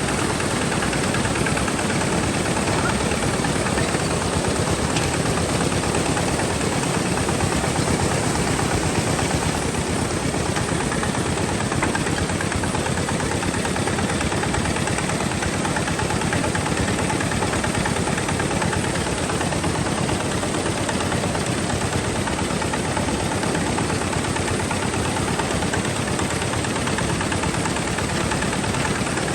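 Tractor engine running steadily with a rapid, even pulsing beat.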